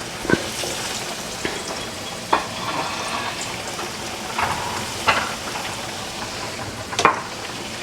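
Breaded chicken nuggets deep-frying in hot oil: a steady sizzle, broken by about six short, sharp pops and clicks.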